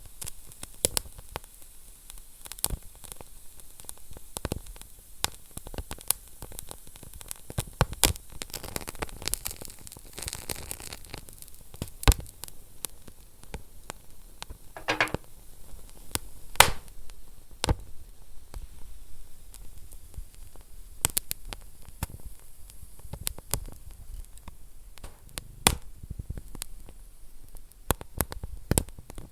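Wood fire in a fireplace crackling, with sharp irregular pops over a steady low hiss of burning.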